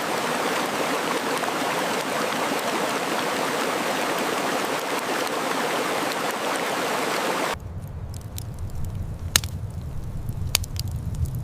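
Steady rush of flowing water, like a stream or small waterfall. About seven seconds in it cuts off abruptly, giving way to a low rumble with sharp, scattered crackles.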